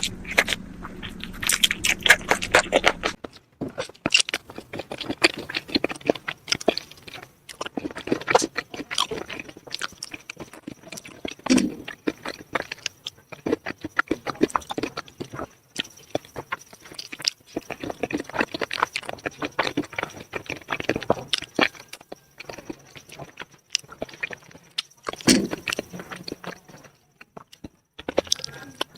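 Close-miked eating of spicy chicken feet: wet chewing, sucking and crunching with many quick irregular clicks, broken by brief pauses.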